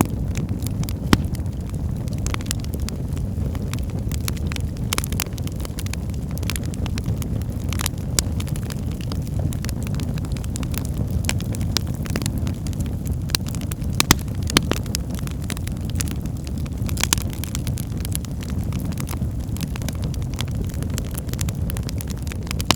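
Wood fire burning in a fireplace: a steady low rumble of the flames with irregular sharp crackles and pops, a few louder pops standing out, one about a second in and a couple about two-thirds of the way through.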